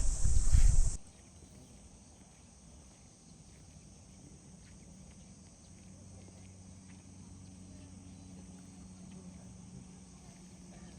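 Insects buzzing loudly in a steady high band, with wind rumbling on the microphone. It cuts off abruptly about a second in, leaving only a faint high insect hum and a low hum.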